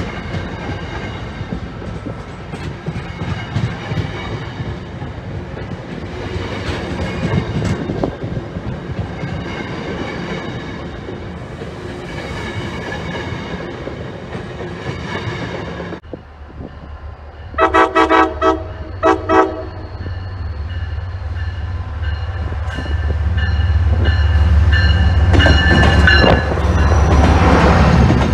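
A passing train's rolling noise and wheel clatter, then, after a sudden change, a train horn sounding about five short blasts in quick succession. A locomotive's low rumble follows, growing louder as it approaches.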